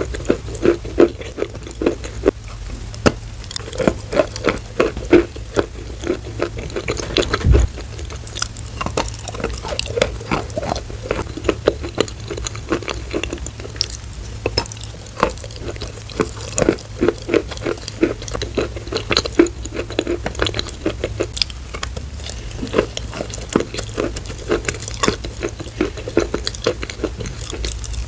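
Close-miked ASMR trigger sounds: a dense, irregular run of small clicks, taps and crackles.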